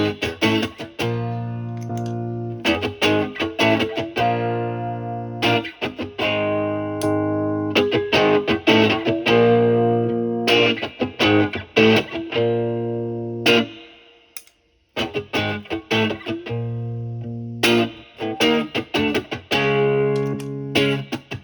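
Electric guitar, a single-coil Stratocaster through a Bluesbreaker-style overdrive pedal into a Marshall amp's clean channel, playing mildly overdriven chords that ring out between strums. The playing stops briefly about two-thirds of the way through, then starts again.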